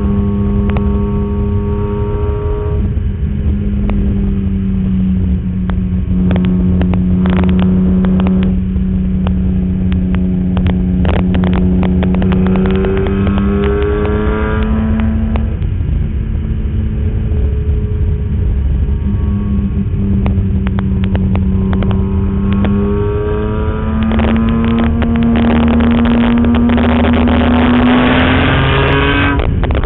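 BMW E46 M3's straight-six engine pulling hard on track, heard from inside the car over heavy road and wind rumble. Its pitch climbs slowly and then drops sharply several times, at shifts or lifts. The owner puts the car's shifting trouble down to the clutch delay valve.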